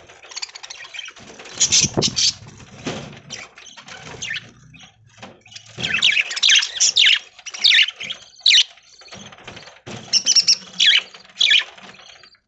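Budgerigars chirping and chattering in short, sharp high calls, several birds at once, with a low thump about two seconds in.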